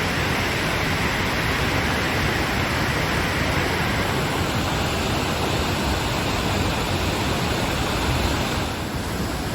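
Flood-swollen creek water pouring down from a dam, a loud steady rush like a waterfall, easing slightly near the end.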